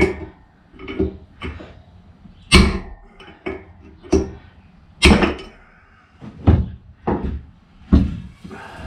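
A series of sharp knocks and clunks at irregular spacing, about one a second, from parts of a motorcycle front-wheel hub being handled and set down during bearing work. The loudest two come about a third of the way in and just past halfway.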